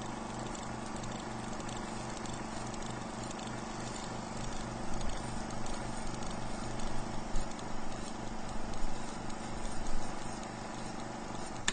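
Stationary engine running at a steady speed with an even, low pulsing beat of about four to five pulses a second. Some louder knocks come in from about five seconds on.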